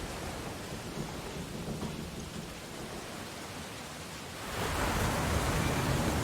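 Ocean waves on a beach: a lull of low rumbling wash, then a wave breaks about four and a half seconds in and the surf swells into a louder hiss.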